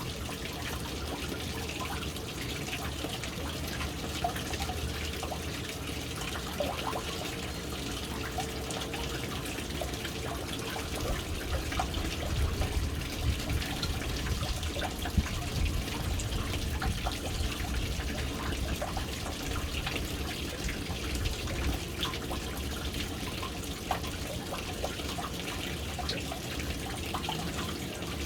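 Water pouring steadily into a household water storage tank, splashing and trickling with scattered small drips over a low rumble.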